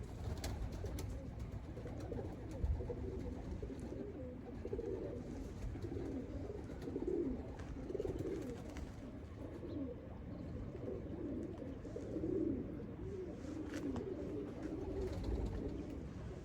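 Domestic pigeons cooing: a run of low, warbling coos one after another, over a low rumble.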